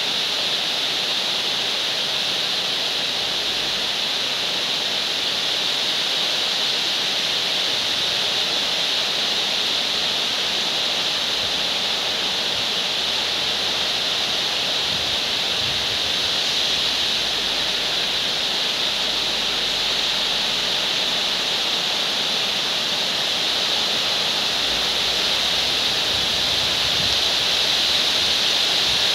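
Heavy rain falling steadily, a dense even hiss that gets a little louder near the end.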